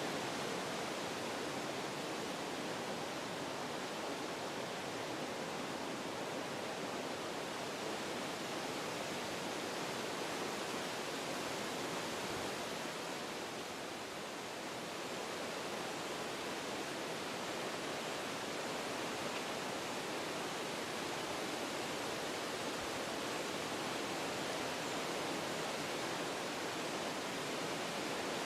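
Wind blowing through forest trees, a steady rush of moving leaves and branches that eases slightly about halfway through.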